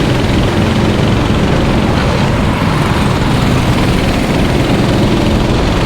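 Racing kart engines running on the track, a steady engine drone that goes on without a break.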